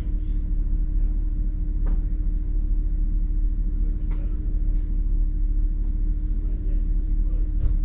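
Hummer H2's engine idling as a steady low rumble with a constant hum, heard from inside the cab, with a few faint ticks.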